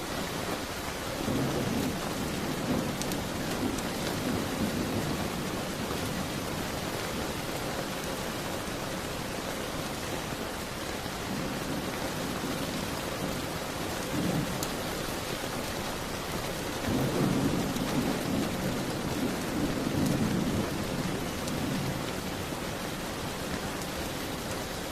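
Steady heavy rain, with low rolls of distant thunder swelling up now and then, the biggest one a little past the middle.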